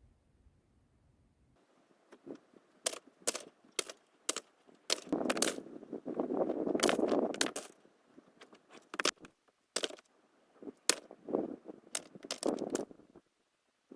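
Sharp knocks and clicks of hard objects being handled, scattered irregularly, with a longer stretch of scraping rustle about five seconds in and shorter ones near the end.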